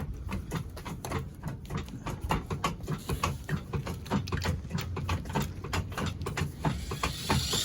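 Hand tools clicking and knocking against metal parts while a car's front suspension is worked on: a run of quick, irregular clicks, with a short hiss near the end.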